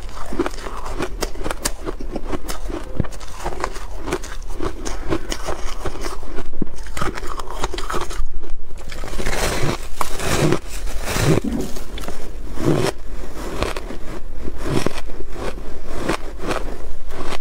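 Ice being bitten and chewed close to the microphone: a quick run of sharp cracks and crunches, with heavier bouts of crunching a little past the middle.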